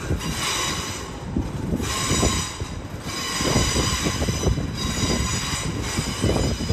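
Train moving along the station tracks: a low rumble with irregular knocks, and high squealing tones from the wheels that come and go in stretches of about a second.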